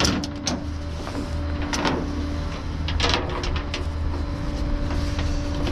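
Idling vehicle engine: a steady low rumble with a constant hum, with a few brief scuffs and rustles.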